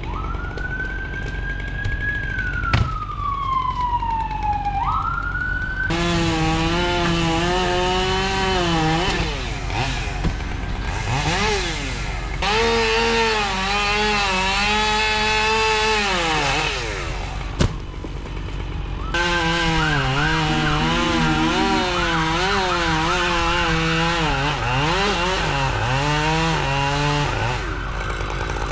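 Chainsaw cutting wood, its motor pitch sagging as it bites into the cut and climbing again as it frees up, over and over. For the first few seconds it is a thinner whine that rises, then slides steadily down; after that a fuller, lower-pitched tone takes over.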